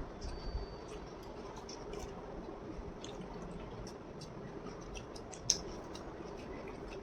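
Eating sounds at a meal of crispy pata: scattered small clicks and crunches of chewing and handling food, with one sharper click about five and a half seconds in, over a steady low background hum.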